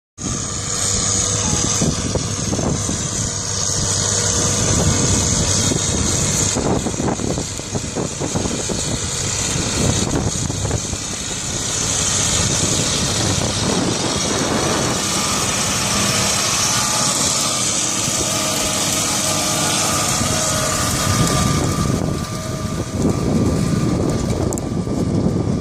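Agrale BX6150 tractor's diesel engine running steadily, working with a Piccin disc harrow, under a broad, even rushing hiss.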